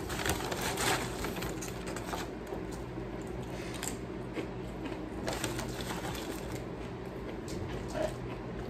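Close-up eating sounds: chewing with short wet clicks and smacks of the mouth, a cluster of them in the first second, over a steady low hum in the room.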